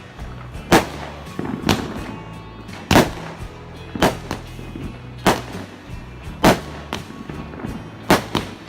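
Fireworks going off: about eight sharp bangs, roughly a second apart, each with a short ringing tail, over background music.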